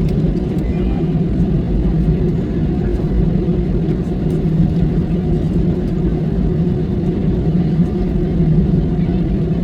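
Steady low rumble of a moving vehicle heard from inside its cabin, unchanging throughout, with a few faint clicks.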